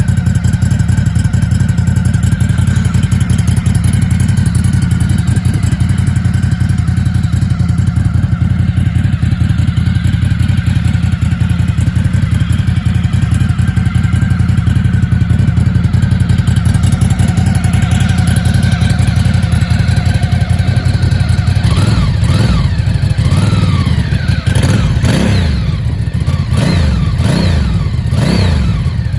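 Ducati Sport Classic's air-cooled L-twin, breathing through a QD aftermarket exhaust, idling steadily for about twenty seconds. Near the end the throttle is blipped about six times, each rev rising and falling quickly.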